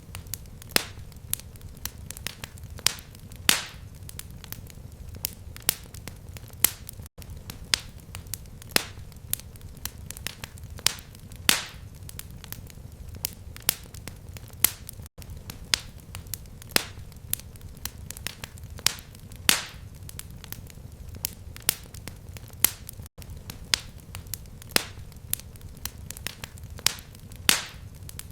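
Fire crackling: irregular sharp pops and snaps over a steady low rumble, with a momentary dropout about every eight seconds.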